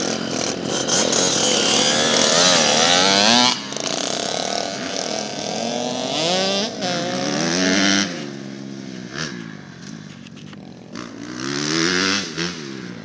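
Small pit bike engines revving hard and shifting, their pitch climbing and falling again and again as the bikes ride around the track. Loud at first, quieter partway through, then revving up again near the end.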